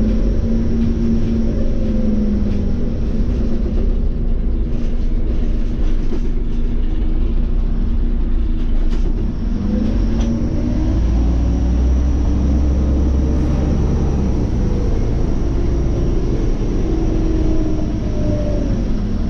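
Scania OmniCity city bus running on the road: a steady engine and road rumble, with the engine's pitch rising and falling several times as the bus speeds up and slows.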